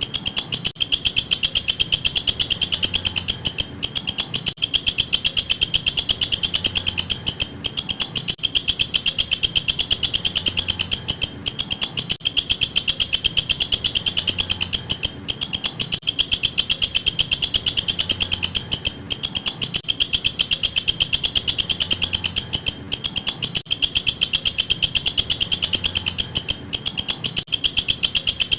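Walang kecek katydid calling: a loud, very fast high-pitched ticking chirr that keeps going, broken by brief gaps every few seconds.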